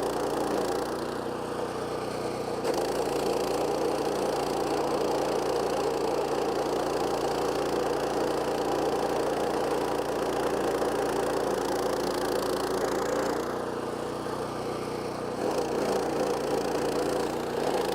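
Stump grinder's 14 hp Kohler Command Pro CH440 single-cylinder engine running steadily at speed while its carbide-toothed cutting wheel grinds into a stump. The sound eases twice, about a second in and again around fourteen seconds, then picks back up.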